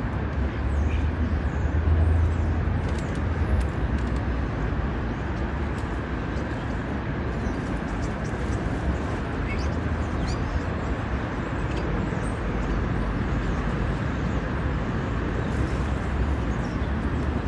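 Steady outdoor rumble and hiss, with a few faint, brief bird chirps over it.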